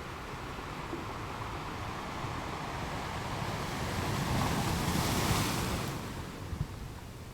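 Ocean surf: a wave swells and breaks about five seconds in with a rushing hiss, then washes back and fades, over a steady low rumble of the sea.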